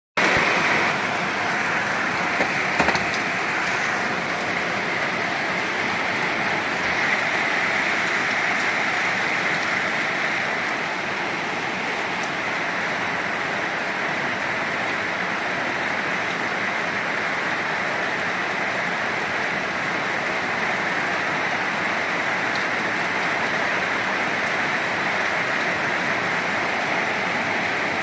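Steady rain falling, an even hiss throughout, with a couple of brief knocks about three seconds in.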